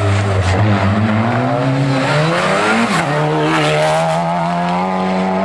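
Hill-climb race car's engine under hard load. The revs sag, then rise, drop sharply at a gear change about three seconds in, and climb steadily again as it accelerates.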